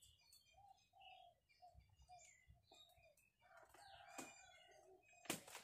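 Faint birds calling, a string of short repeated low calls with thinner higher chirps over them, and a sharp click near the end.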